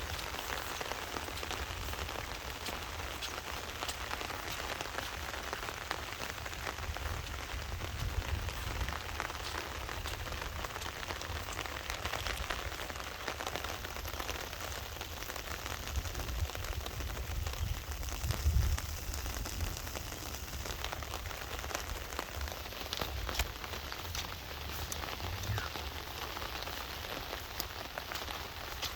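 Heavy rain falling steadily, a dense hiss of countless drops with fine individual patters. A low rumble runs underneath, swelling now and then and loudest about two-thirds of the way through.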